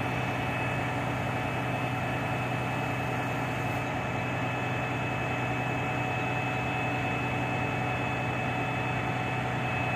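Shingle delivery truck's diesel engine running steadily at idle: an even, unchanging low hum with a faint steady whine above it.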